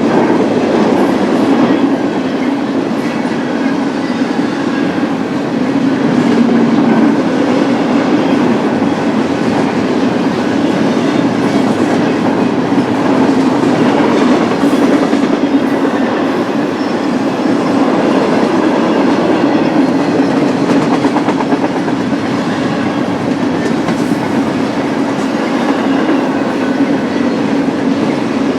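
BNSF double-stack intermodal freight train's cars rolling steadily past, with a continuous noise of wheels on rail and faint clicks over the joints.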